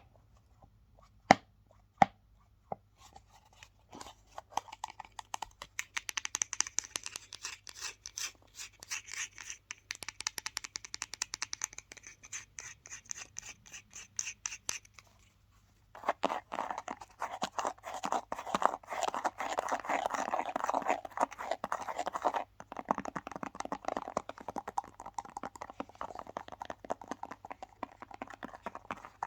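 Fast, aggressive scratching and tapping on objects: a few sharp taps at the start, then dense rapid scratching that stops briefly about halfway and starts again lower in pitch.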